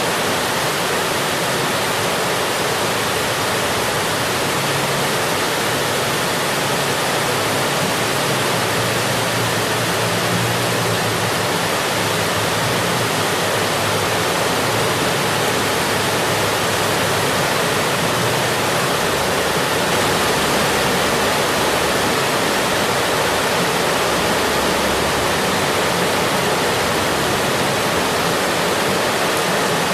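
Steady heavy rain: an even, unbroken hiss, with no single drops or splashes standing out.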